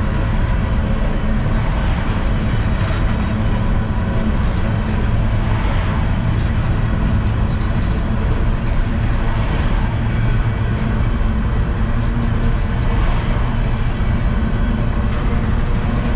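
CSX unit coal train rolling past: a loud, steady rumble of steel wheels on rail, with a few faint higher clicks now and then.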